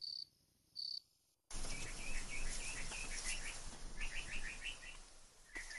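Two short high cricket chirps, then outdoor background noise with a small songbird singing quick runs of chirps.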